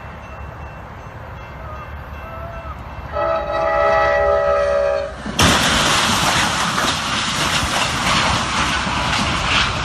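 A horn sounds a chord of several steady tones for about two seconds over a low rumble. About five seconds in, a sudden loud, noisy rush starts and carries on.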